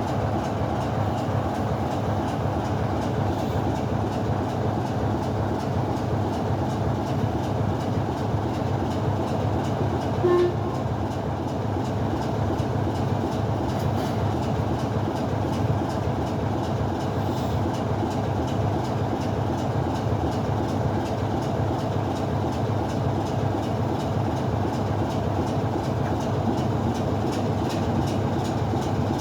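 Steady, unbroken running noise of a heritage train, with a brief pitched tone about ten seconds in.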